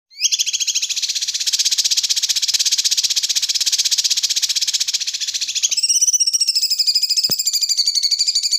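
Recorded masteran material of the kind used to train magpie-robins: a high, fast, continuous buzzing trill. About two-thirds of the way through it shifts to a higher, wavering trill.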